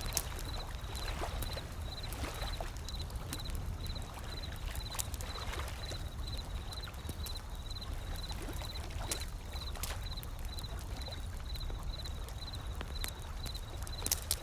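Wood fire crackling with scattered sharp pops over a low, steady rumble of ocean waves. A faint high chirp repeats about twice a second.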